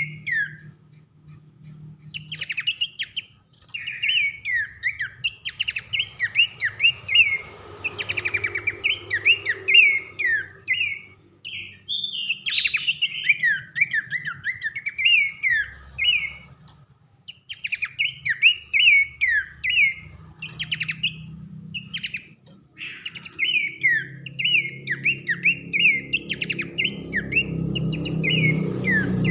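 Horsfield's babbler (pelanduk semak) singing loud whistled notes that slide down in pitch, delivered in quick runs with short pauses between phrases.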